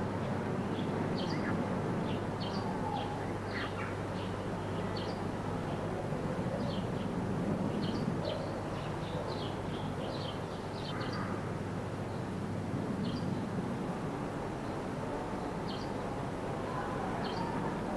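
Small birds chirping and singing in many short, scattered calls over a steady background of outdoor rural noise, with a single thump at the very start.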